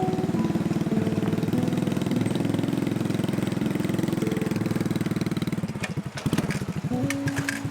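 Small-displacement motorcycle engine running with a steady, even pulse under background music. About six seconds in, the engine sound breaks off and a few sharp clicks follow.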